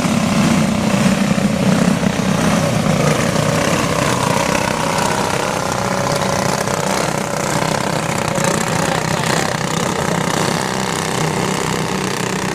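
A pack of racing go-kart engines running together on a track, several pitches wavering up and down as the karts circulate. Louder in the first few seconds, then steady.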